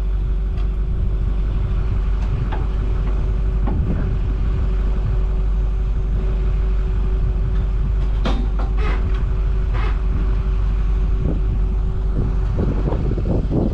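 Truck engine running steadily: a low rumble with a constant hum, and a few sharp clicks or knocks about eight to ten seconds in.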